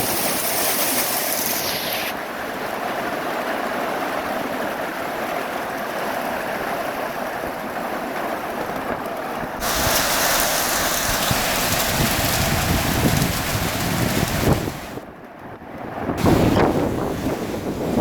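Heavy rain pouring in a steady rush. From about ten seconds in, gusts of wind buffet the microphone, and the sound dips briefly about fifteen seconds in.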